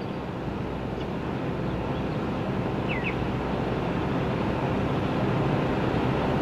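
A steady engine drone that grows gradually louder, as of something approaching, with a bird's short double chirp about three seconds in.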